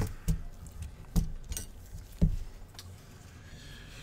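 Small tools clicking and tapping on the workbench: about five sharp knocks in the first two and a half seconds, the first the loudest.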